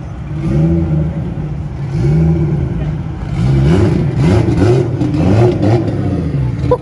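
Car engine being revved several times, its pitch rising and falling with each rev, with quicker blips about halfway through.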